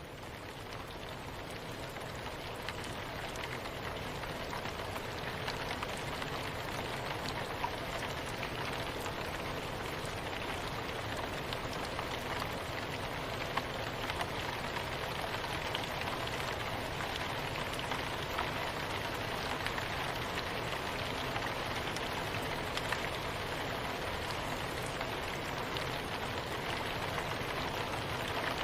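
Steady soft rain falling with many small drops pattering, swelling in over the first few seconds and then holding even.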